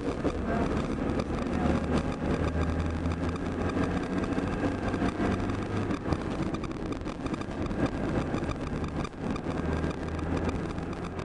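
Cabin sound of an IZh-2126 Oda on the move while the car is still cold: steady engine hum and road noise, with scattered faint clicks and rattles and no clear dashboard squeak.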